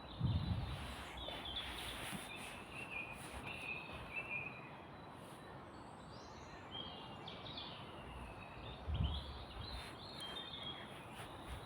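Small woodland birds singing and chirping in short phrases over a steady background hiss, with two low thumps, one just after the start and one about nine seconds in.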